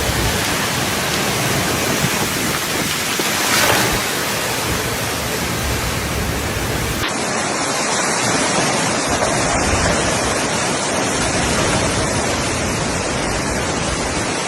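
Cyclone-force wind and heavy rain as a loud, steady rushing noise that swells briefly about three and a half seconds in. About seven seconds in, the footage cuts to another recording of the same kind of storm noise.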